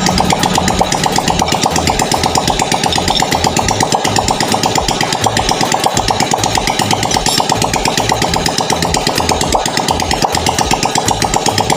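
Small motorcycle engine running steadily with a fast, even beat, about six or seven pulses a second.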